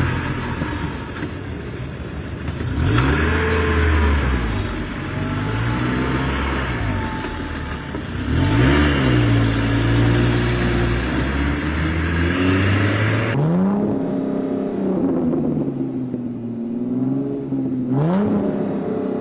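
Engine revving again and again, its pitch rising and falling, with the sound changing character about thirteen seconds in.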